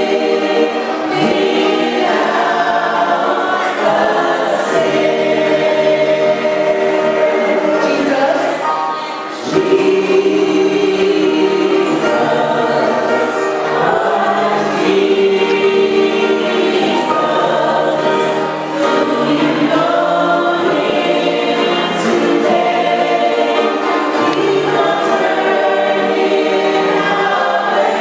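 Music: a choir singing in several voices, with long held chords.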